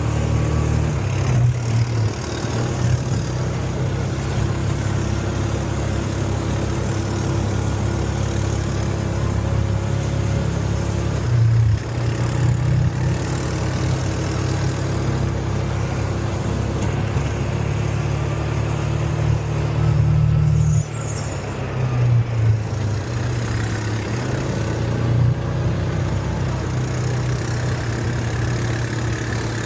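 UTV engine running steadily while driving, with a strong low hum that changes pitch briefly twice as the throttle changes.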